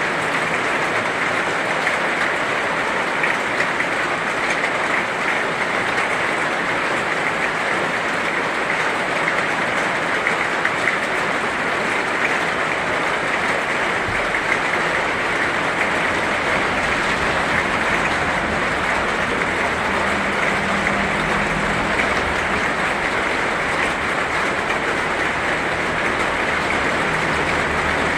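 Heavy rain falling steadily, an even dense hiss with fine pattering. A low rumble joins underneath about halfway through.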